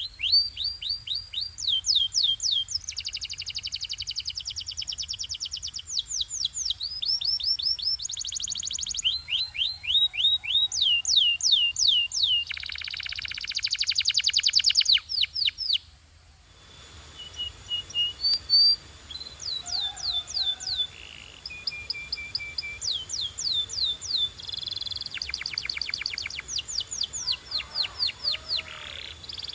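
Domestic canary singing: rapid trills of quickly repeated falling notes, switching from one trill to the next every second or two. The song drops away briefly about halfway through, then starts again.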